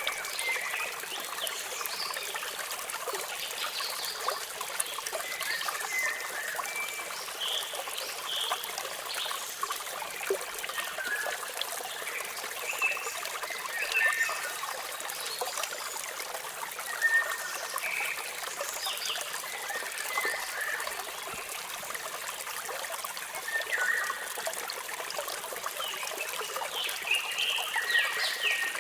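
Steady rush and trickle of falling water, with birds chirping intermittently over it in short high calls.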